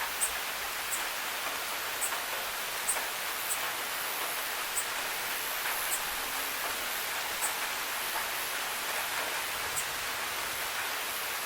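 Steady rain falling, an even hiss, with occasional sharp ticks of single drops landing at irregular intervals.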